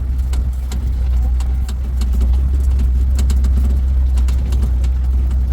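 Safari tour truck's engine running with a steady low rumble as it drives along, with scattered clicks and rattles from the vehicle.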